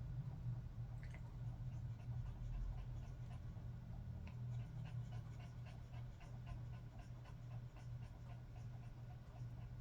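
Elderly poodle panting in quick, even breaths, about three a second, clearest from about four seconds in, over a low steady hum.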